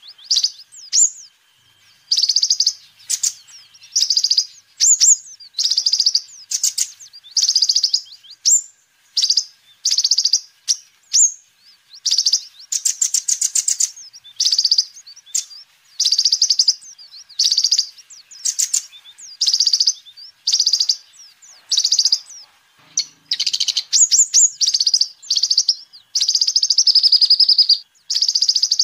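A kolibri ninja sunbird singing: short, high, rapid twittering phrases repeating about once a second, with a few longer trilling runs along the way.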